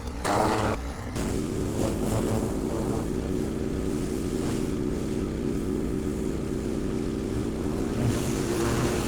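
Engine of a Magnum 4000 Gold hot water pressure washer running steadily, after a short break near the start.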